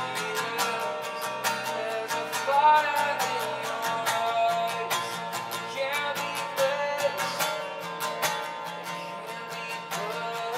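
Live worship music: an acoustic guitar strummed in a steady rhythm, with a voice singing a wavering melody over it.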